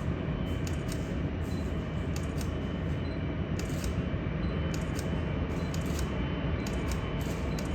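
Several short bursts of camera shutter clicks over a steady low rumble of jet engines running at the airfield.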